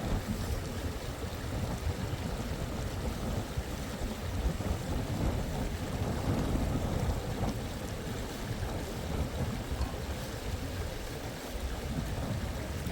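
Wind buffeting the microphone outdoors: a continuous low rumble that rises and falls slightly.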